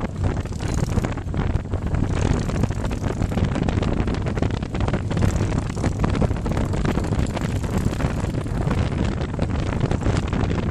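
Motorcycle on the move: wind rushing and buffeting over the microphone, with the engine and road noise running underneath.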